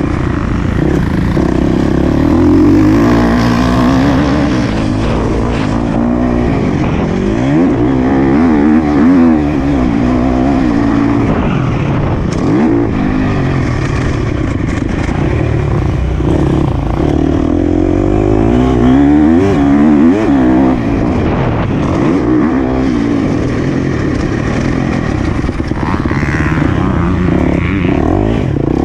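Motocross dirt bike engine being ridden hard around a track, revving up and dropping back over and over as the rider throttles, shifts and brakes.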